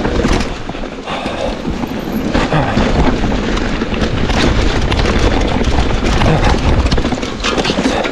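Mountain bike clattering down a rough downhill trail: dense, irregular knocks and rattles from the tyres, frame and suspension over rocks and roots, over a steady low rumble.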